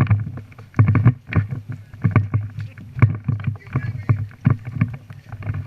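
Footsteps and rustling gear of a player on the move: irregular thumps and scuffs, two or three a second, over a low rumble.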